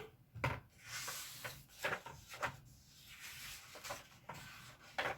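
Quiet rustling of paper as a book is handled and its pages are turned, with a few light knocks.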